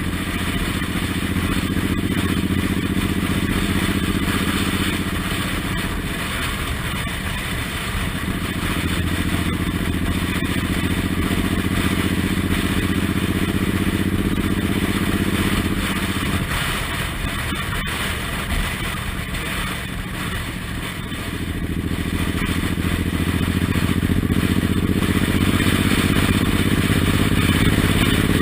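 Suzuki Intruder M1800R's big V-twin engine running under way, its note climbing as the bike accelerates, dropping abruptly about halfway through as the throttle eases off, then climbing again to the end.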